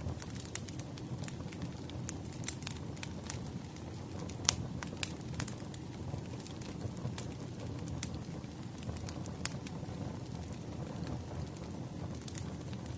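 Wood fire crackling: a steady low rumble of burning logs with irregular sharp pops and snaps, the loudest pop about four and a half seconds in.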